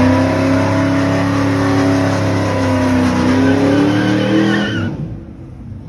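Car engine held at high revs with tyres squealing, as in a burnout or drift. It dies down sharply near the end.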